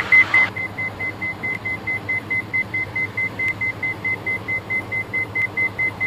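Cockpit audio warning in a Diamond DA42 twin: a high beep repeating rapidly, about four to five times a second, over the steady hum of the engines in the headset.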